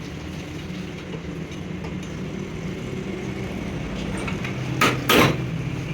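A motor running with a steady low hum, then two short, loud hissing bursts close together near the end.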